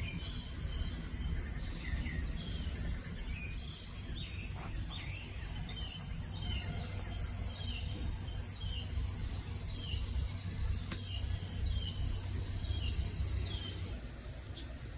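A songbird chirping repeatedly, short down-slurred notes about once a second, over a steady high insect chorus and a low rumble; the insect drone and rumble drop away near the end.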